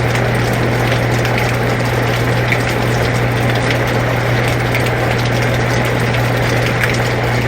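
Air conditioner running with a steady low hum, mixed with rain falling, its drops heard as scattered small ticks over a constant hiss.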